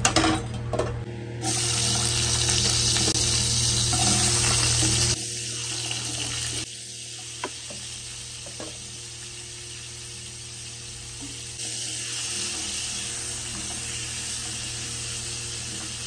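Potato pieces sizzling as they fry in hot oil in a kadai, a steady hiss. It starts suddenly about a second and a half in, is loudest for the first few seconds, then drops abruptly to a quieter steady sizzle, with a couple of light clicks.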